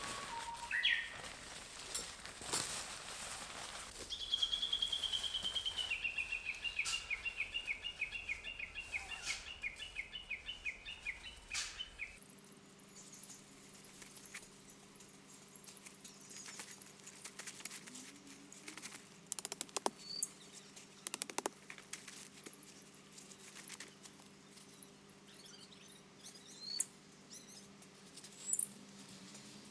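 A bird calling a fast series of repeated notes for several seconds. Then scattered light ticks and patters with a faint steady hum and a few brief high chirps.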